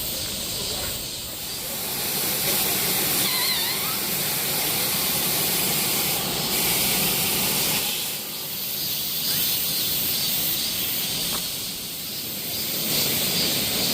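Rushing water: a steady hiss that dips briefly about a second in, again past the middle and once more near the end.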